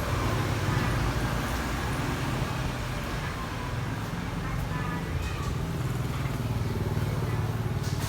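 Steady low rumble, like traffic or a motor running, with faint indistinct voices in the background.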